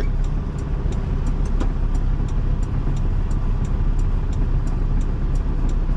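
Semi truck's diesel engine idling steadily, a constant low hum heard from inside the cab.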